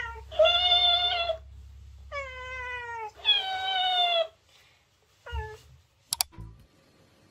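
A cat meowing: three drawn-out meows, the middle one falling in pitch, then a short one, followed by a couple of light clicks near the end.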